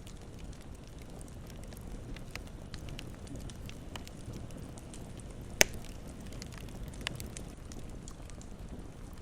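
Campfire burning with a steady low rumble and scattered soft crackles, and one loud sharp pop a little past the middle.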